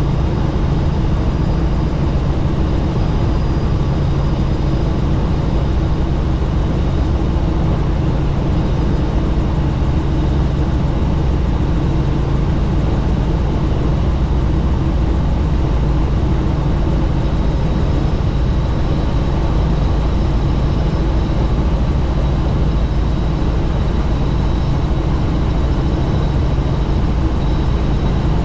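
Helicopter in steady flight heard from inside the open-doored cabin: a constant loud low rotor and engine drone under rushing wind noise, with a faint high whine.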